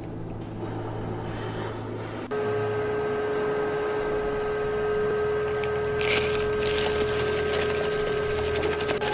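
A small electric motor hums, then something switches on about two seconds in and runs at a steady pitch, with a rasping, scraping noise for a while near the middle.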